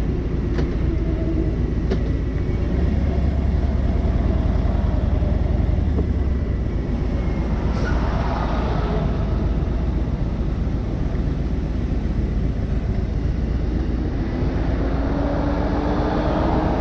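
Harley-Davidson Road King's V-twin engine running on the move, under a steady rush of wind noise. A faint tone rises in pitch near the end.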